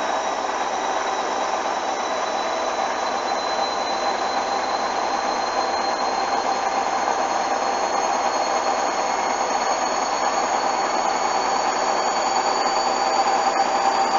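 Hoover washing machine's motor and drum whining steadily as the drum slowly speeds up in a spin, the whine rising gradually in pitch and growing a little louder. The machine is working to bring an unbalanced load into balance.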